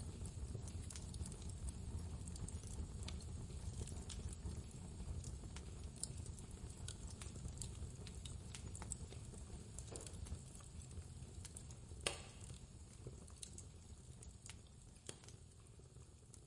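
Wood fire crackling with scattered small pops and one sharper crack about twelve seconds in, over a low steady rumble of blizzard wind. The whole mix fades gradually near the end.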